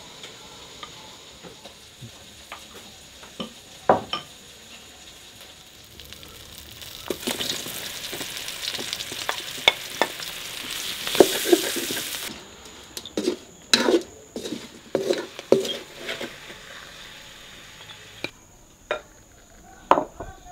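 Sliced mushrooms and dried prawns sizzling in hot oil in a wok as they are stirred with a spatula. The sizzle starts about a third of the way in and cuts off abruptly just past halfway, followed by a run of sharp utensil knocks. Earlier there are a few light clinks of a ladle against a bowl.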